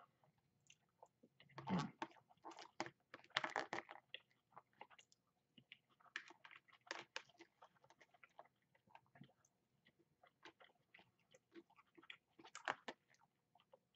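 A person chewing and biting food, quiet and close, with irregular small crunches and clicks. It is louder in short clusters about two and four seconds in and again near the end.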